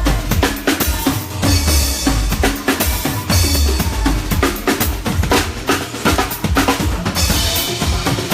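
A live band playing at a sound check, with the drum kit loudest: kick drum, snare hits and cymbal washes over a low bass line.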